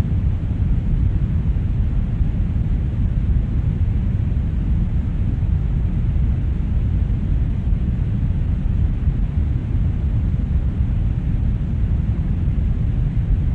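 Brown noise: a steady, deep rushing hiss with most of its weight in the low end and little treble, unchanging throughout.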